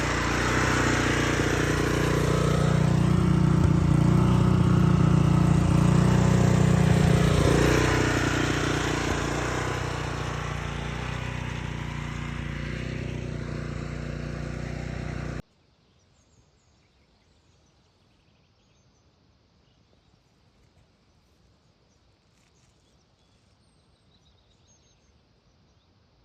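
Engine of a turf maintenance machine running, growing louder to a peak and easing off again as it passes, then cutting off abruptly about fifteen seconds in. Near silence follows, with a few faint bird chirps.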